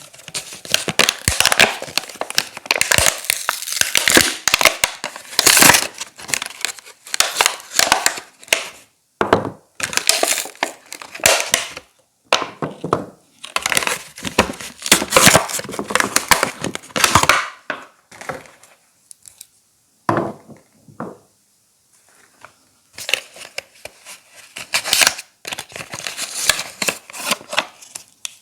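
Soap wrappers being torn open and crumpled by hand: irregular bursts of crinkling and tearing, with a pause of a couple of seconds about two-thirds of the way through.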